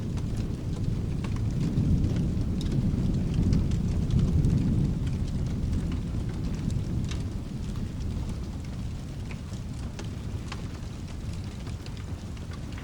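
Distant thunder rumbling low, swelling about two seconds in and fading through the middle, over steady rain. Scattered sharp crackles of a wood fire run throughout.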